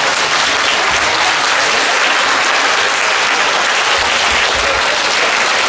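Audience applauding steadily, a large hall's worth of clapping hands.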